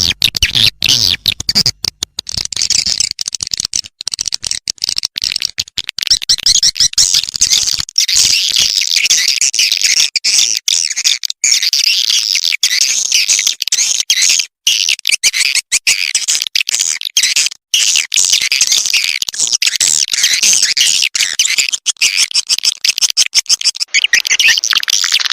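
Swiftlet lure-call recording: a dense, unbroken chorus of rapid high chirps and twitters from swiftlets, the sound played in swiftlet houses to call the birds in to roost and nest.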